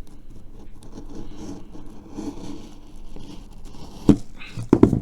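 Scraping and rustling as the pieces of a cut-open smoke ball shell and the smoke bomb inside are handled, with a sharp knock about four seconds in and a few more knocks near the end.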